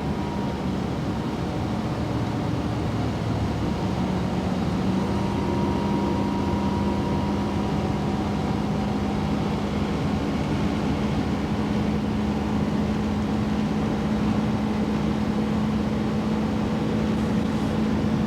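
Steady engine and road noise inside a moving car's cabin, with a low hum that steps up slightly in pitch about four seconds in.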